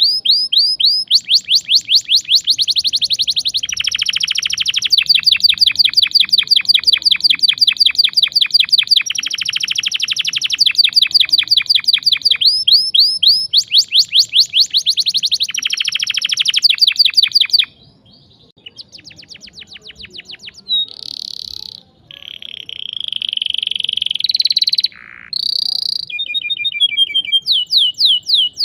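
Domestic canary singing a loud rolling song: long trills of fast repeated chirps, phrase after phrase at different speeds. Past the middle the song drops to a softer stretch of varied whistles and a held note before the rapid trills return near the end.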